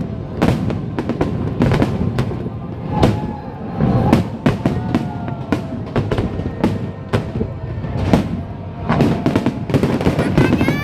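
Aerial fireworks bursting in rapid succession, with sharp bangs about twice a second over a continuous low rumble and crackle.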